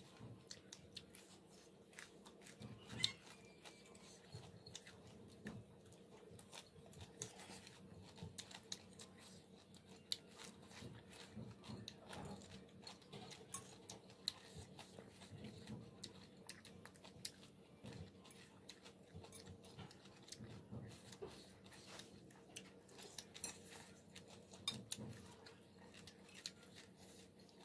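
Quiet chewing and crunching of mouthfuls of hooker chive salad, with frequent small clicks and scrapes of metal forks against ceramic plates.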